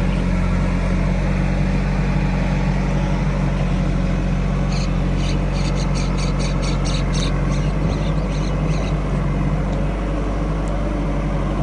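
Heavy diesel engine of a backhoe loader or tractor running steadily at constant speed. From about five seconds in, for about four seconds, a quick series of short high squeaks, about three or four a second, sounds over it.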